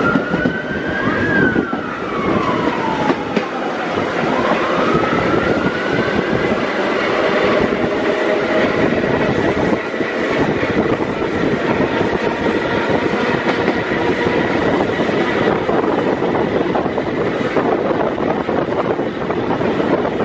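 Ride noise inside the 1903-built BU elevated subway car #1273 as it runs along the track: a steady rumble and rattle. In the first five seconds a whine rises and falls, then rises again.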